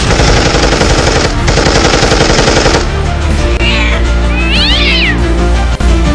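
Two bursts of a rapid, dense rattle like machine-gun fire over steady background music, then a cat meowing twice, each meow rising and falling in pitch.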